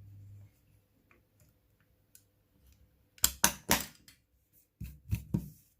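Sharp plastic clicks and snaps of a hair clipper's back cover being fitted and pressed into place: a cluster of loud clicks about three seconds in and another short cluster near the end.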